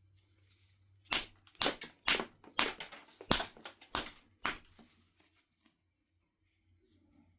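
Knife River flint biface being knapped: about ten sharp, cracking stone strikes in quick succession, roughly two a second, stopping about halfway through.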